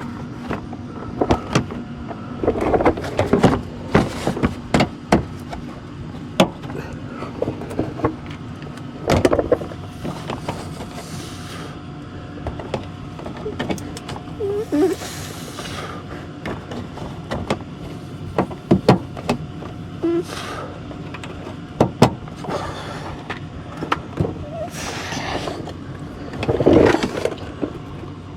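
Plastic under-car splash guard being fitted back, with irregular sharp clicks, knocks and rattles as its push-in retaining clips go in, over a steady background hum.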